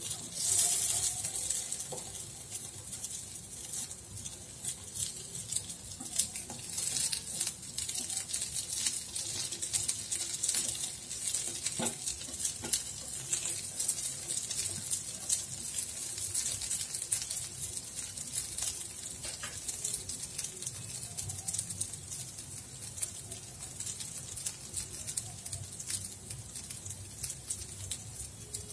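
Koftas frying in a little oil in the wells of an appam pan over a gas flame: a steady sizzle with a dense fine crackle of popping oil, briefly louder just after the start.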